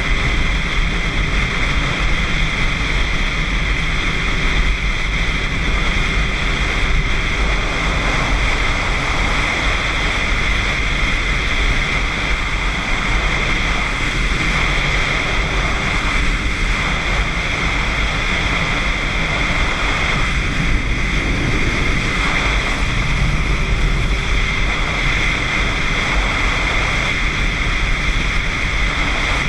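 Motorcycle riding at road speed: steady, loud wind rushing over the microphone, with the engine running underneath.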